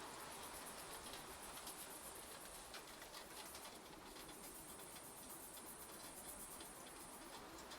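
Light rain falling, faint and steady, with many small scattered drip ticks.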